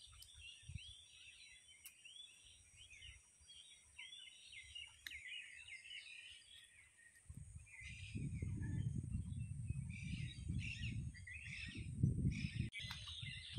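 Birds chirping in many short, quick repeated notes. About halfway through, a low, uneven rumble comes in and becomes the loudest sound.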